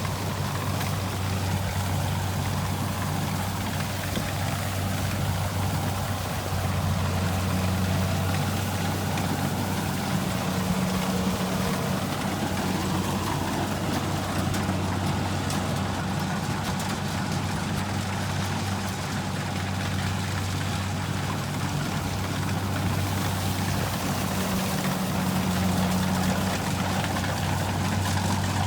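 Kubota rice combine harvester's diesel engine running steadily with a low, even drone.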